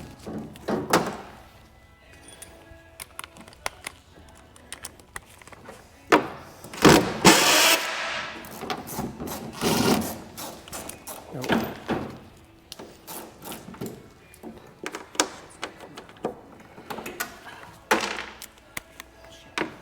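Workshop work noise on a Humvee under rebuild: irregular clanks, clicks and thunks of tools and metal parts, with several louder noisy bursts. Faint background music runs under it.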